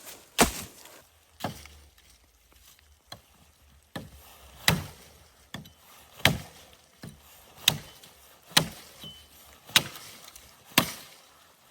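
Wood being chopped: about ten sharp strikes roughly a second apart, unevenly spaced and varying in strength.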